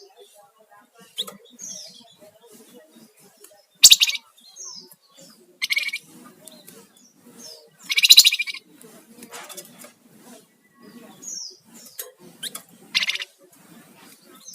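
Flamboyan songbird calling: short, high, falling whistles mixed with harsh, buzzy bursts, the loudest two near 4 and 8 seconds in.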